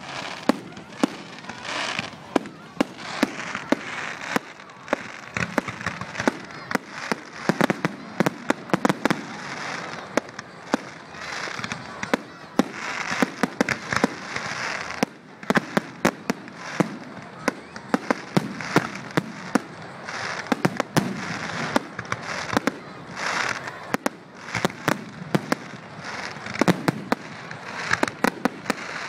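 Fireworks display: aerial shells bursting in a rapid, irregular run of sharp bangs and crackling.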